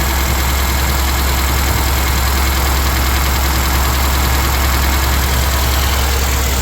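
2004 Honda Accord engine idling steadily while it misfires on one cylinder, which the owner suspects is a bad ignition coil.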